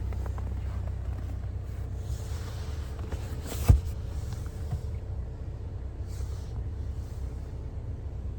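Steady low rumble of a car running, with one sharp click or knock a little under four seconds in.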